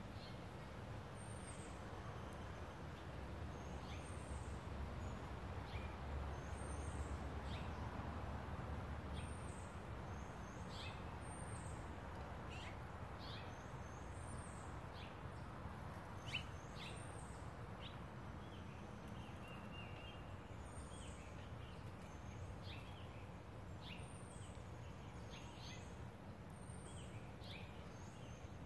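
A small songbird repeats a short, very high, hooked call about every one and a half to two seconds, with scattered chirps from other birds. Under it runs a steady low outdoor hum.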